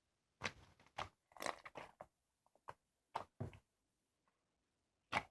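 Hands pressing and squeezing a homemade 액괴 (slime), giving short sticky pops and crackles in irregular bursts, with a sharper pop near the end.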